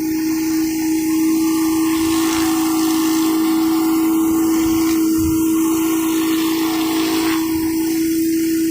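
Gas pressure washer running steadily with a strong, even hum, and high-pressure water spray hissing against concrete; the spray hiss swells about two seconds in and eases back near the end.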